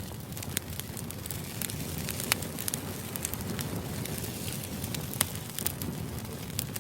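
Crackling fire used as background noise: a steady low hiss with irregular sharp pops and snaps scattered throughout.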